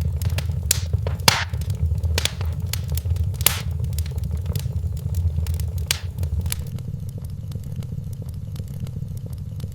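Wood fire crackling in a fireplace: irregular sharp pops and snaps over a steady low rumble of the burning fire, with the pops growing sparser near the end.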